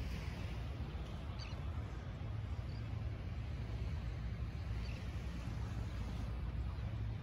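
Faint, short, high-pitched bird chirps, heard about three times, over a steady low rumble.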